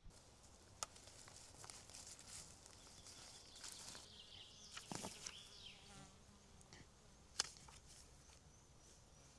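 Quiet forest ambience with insects buzzing, some faint chirps around the middle, and two sharp clicks, one about a second in and a louder one near the end.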